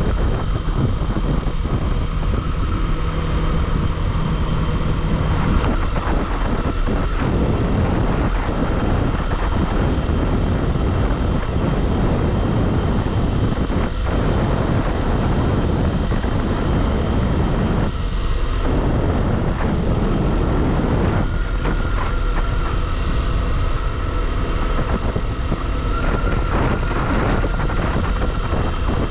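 Bajaj Pulsar single-cylinder motorcycle riding steadily at road speed. The engine runs under heavy, even wind noise on the microphone.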